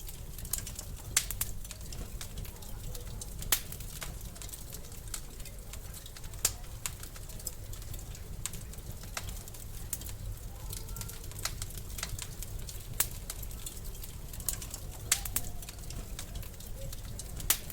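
Wood fire in a fireplace crackling: irregular sharp pops and snaps, a handful of them loud, over a steady low rumble.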